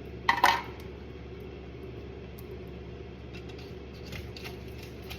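Kitchenware clattering briefly, two quick knocks about half a second in, then a steady low hum with a few faint clicks later on.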